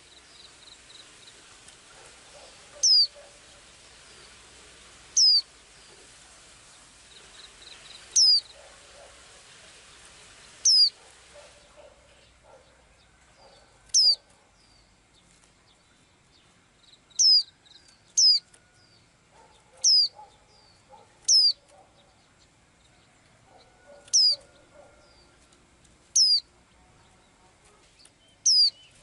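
A small songbird calling over and over with a single sharp, high, downward-sweeping whistle, about a dozen times at intervals of one to three seconds. Soft low twittering sounds between the calls.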